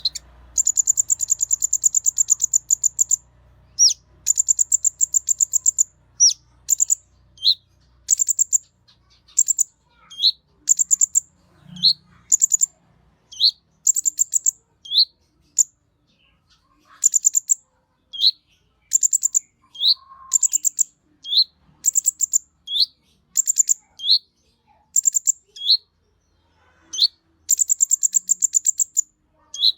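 A konin bird singing: very high, fast trills alternating with short, clear up-slurred notes, the phrase repeating about every one and a half seconds. Longer trills run from about half a second in to about three seconds in, and again near the end.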